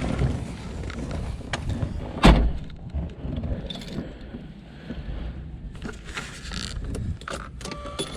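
Clicks and rustling at a 1992 Alfa Romeo Spider Veloce, with one loud thump about two seconds in, like the car's door being shut. A faint steady tone begins near the end.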